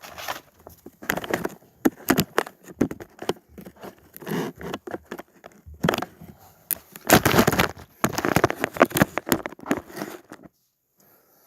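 Handling noise: irregular rustling, crinkling and scraping with many sharp clicks. It stops about a second before the end.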